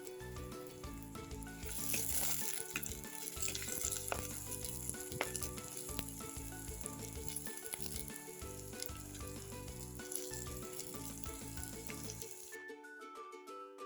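Food frying in hot oil, a steady sizzle, over quiet background music. The sizzling stops about a second before the end, leaving only the music.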